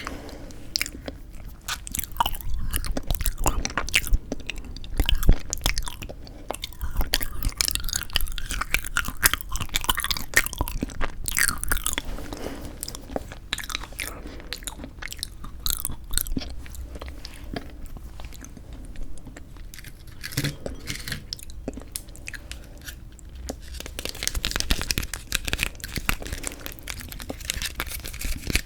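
Close-miked chewing and biting of frozen yanggaeng (Korean sweet red bean jelly), a dense run of small wet clicks and crackles from the mouth.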